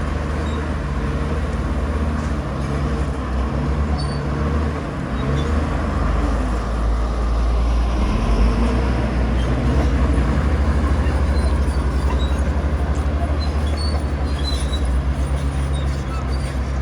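Heavy diesel earthmoving machinery running with a deep, steady engine rumble that grows a little louder about halfway through.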